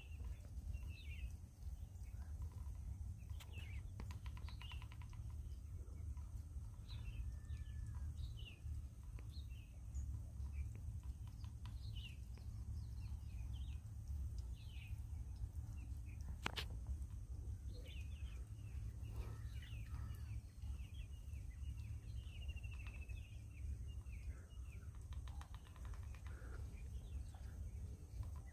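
A house sparrow chirping repeatedly in short notes, with a quick run of light taps a few seconds in and a single sharp tap about halfway through, typical of a sparrow pecking at its reflection in a motorbike mirror. A steady low rumble runs underneath.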